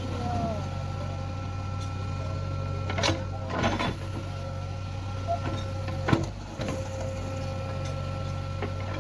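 Backhoe loader engine running steadily, with a few sharp metallic knocks from the machine's work: about 3 seconds in, again half a second later, and once more about 6 seconds in.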